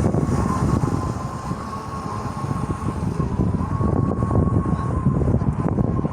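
Electric motors of a remote-controlled bait boat running with a steady high whine as the boat travels under GPS autopilot. Wind buffets the microphone underneath.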